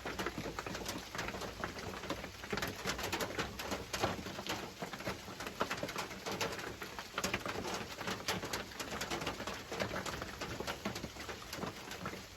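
Light rain pattering: a dense, irregular spatter of small drop taps.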